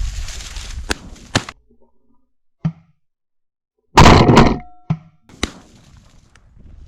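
A single loud shotgun shot about four seconds in, with a short ringing tail, followed by two fainter sharp knocks. Wind rumble and a couple of clicks come before it.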